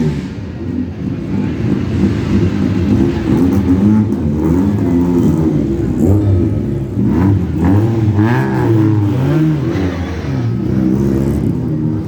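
Sports car engines running loudly and revving, with several quick rises and falls in pitch in the second half.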